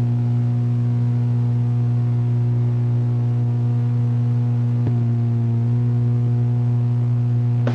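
A steady low hum with a stack of overtones, unchanging in pitch and level, with a faint click about five seconds in.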